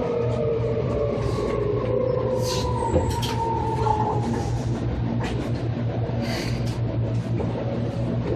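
Seibu 2000 series electric train running, its whine falling in pitch over the first four seconds as the train slows, over a steady low rumble. A few short clatters come through around the middle and later on.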